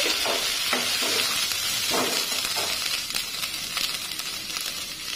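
Minced herb paste sizzling as it fries in oil in an aluminium pot, stirred with a wooden spatula that scrapes the pot a few times in the first half. The sizzle eases off slightly toward the end.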